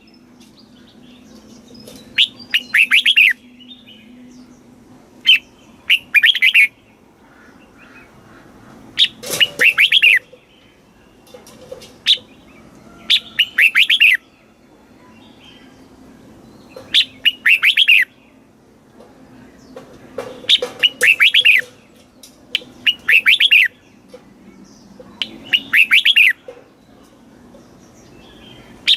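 Red-whiskered bulbul singing: short phrases of several quick notes, each about a second long, repeated about every three seconds. A faint steady low hum runs underneath.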